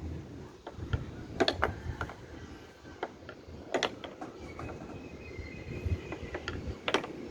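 Snooker balls rolling along a wooden track: a continuous low rumble broken by sharp clacks of the balls against the wood and each other, the loudest about a second and a half in, just before four seconds and near the end.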